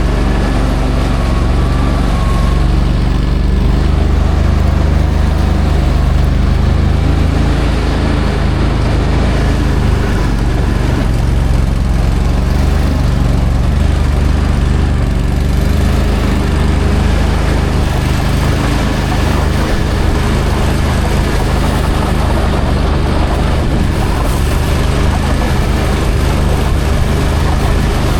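A motor vehicle's engine running steadily as it drives along, with a low, even drone.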